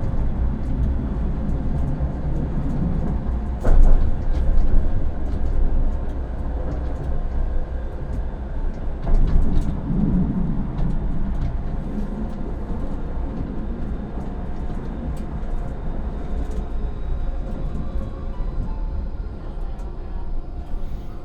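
Tram running along its track, heard from the driver's cab: a steady low rumble of wheels on rail, with scattered clicks and knocks and louder stretches about 4 and 10 seconds in. A faint high whine comes in near the end.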